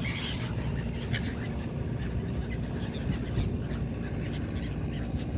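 Seagulls calling over the steady low rumble of a motorboat. A call sounds right at the start, then a few faint short calls follow.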